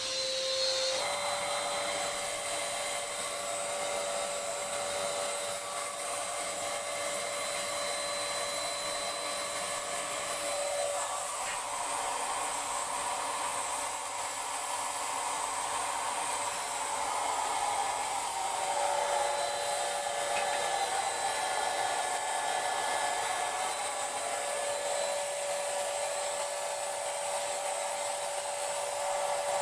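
Paint Zoom handheld electric paint sprayer running steadily: a constant motor whine over a hiss of air, its pitch shifting slightly about a second in and wavering a little later on.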